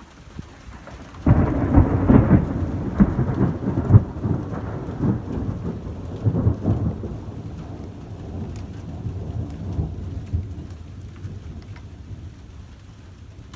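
A thunderclap breaks suddenly about a second in and rumbles on with crackling peaks for several seconds, then slowly fades. Rain falls steadily underneath.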